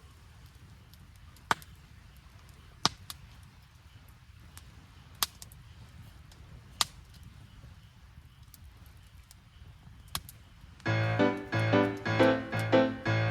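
Campfire crackling softly, with a handful of sharp, irregular pops from the burning wood. About eleven seconds in, piano background music starts and becomes the loudest sound.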